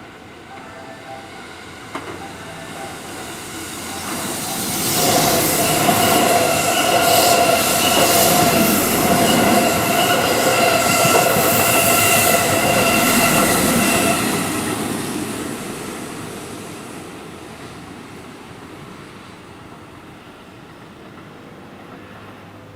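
Keihan 3000 series electric train passing: the sound swells over a few seconds, stays loud for about ten seconds with a steady high-pitched wheel squeal and a quick run of clacks over rail joints, then fades away.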